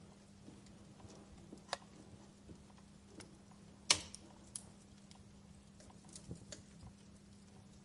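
Campfire wood crackling with scattered sharp pops, the loudest about four seconds in, over a faint steady low hum.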